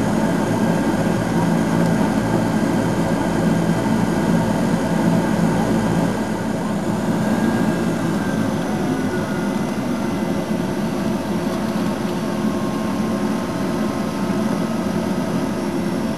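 De Havilland Canada DHC-6 Twin Otter's twin Pratt & Whitney PT6A turboprop engines and propellers running at high power, heard from inside the cabin as a loud, steady drone with a low rumble. The sound drops a little in level about six seconds in.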